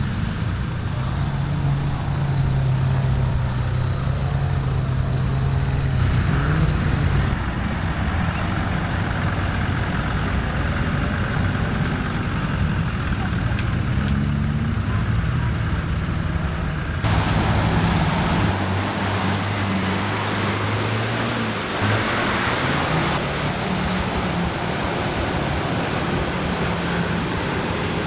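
Off-road vehicle engines running and revving, their pitch rising and falling, over a steady rushing noise. The sound changes abruptly about two-thirds of the way through, as at a cut to another vehicle.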